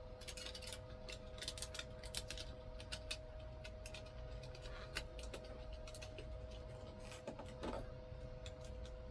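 Irregular small clicks and crackles, rapid and uneven, of hands working and pressing sealing material into the A/C ducting, over a faint steady hum.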